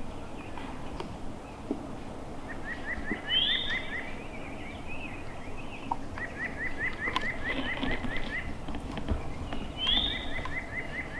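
A songbird singing the same phrase three times: a high rising note followed by a quick, even run of about eight short slurred notes, with woodland background noise beneath.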